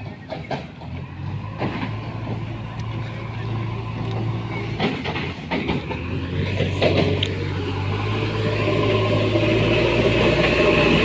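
Mahindra tractor's diesel engine running steadily, getting louder through the second half, with scattered knocks and clanks in the first several seconds.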